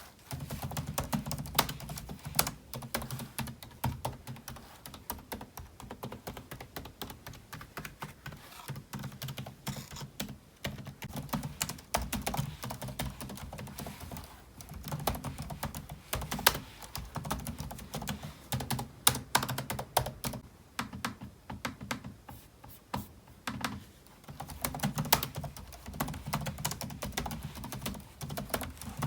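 Continuous fast typing on a computer keyboard, a dense stream of key clicks with a few brief pauses.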